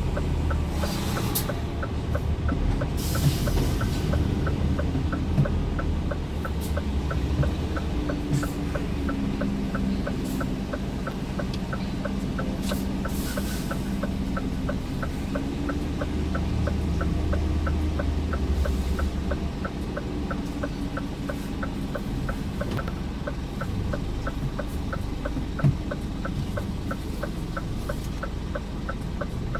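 Scania R410 truck's 13-litre six-cylinder diesel running while driving, its pitch rising around the middle and dropping after about 19 seconds. A steady light ticking runs alongside, about three ticks a second.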